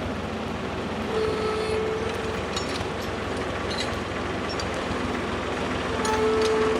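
Tractor engine running steadily, with a whine that rises twice and a few light metallic clinks.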